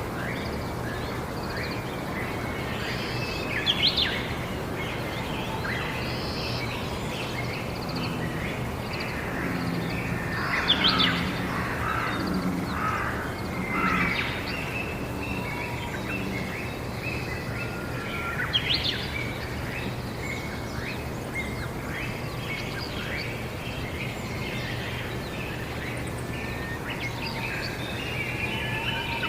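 Wild birds chirping and calling, short scattered notes with a few louder calls standing out, over a steady low hum.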